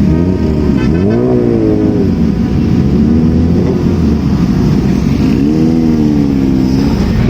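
Motorcycle engine under way, rising and falling in pitch twice as it accelerates and eases off, over a steady rushing noise.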